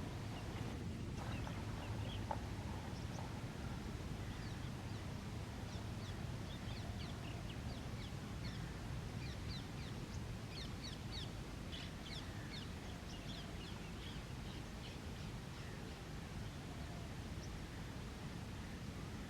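Birds chirping: many short, high, falling calls, busiest in the middle stretch, over a steady low rumble.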